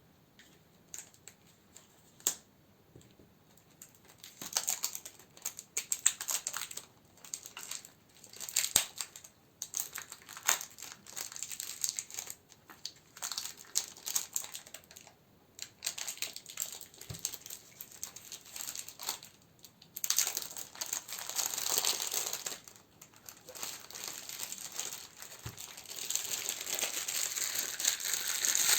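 Plastic and paper wrappings crinkling as candles are handled and sorted. It starts with a few light clicks, then comes in irregular bursts, and turns steadier and louder about twenty seconds in.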